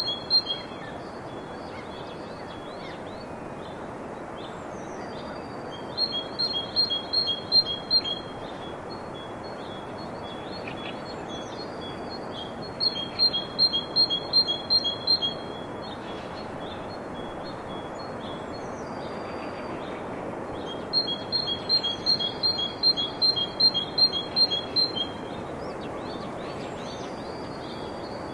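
Songbird calls over a steady background hiss: a rapid series of bright paired notes repeated in bouts about every seven seconds, with softer downward-slurred whistles in between.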